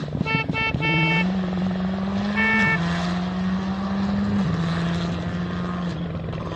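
Rally car engine pulling hard, its note climbing and then dropping at an upshift about two and a half seconds in and again at about four and a half seconds. Three short horn toots in the first second, and another just before the first shift.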